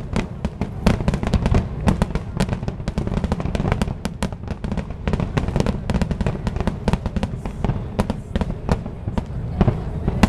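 Aerial fireworks display going off in rapid succession: a dense run of sharp cracks and booms, several a second, over a continuous low rumble.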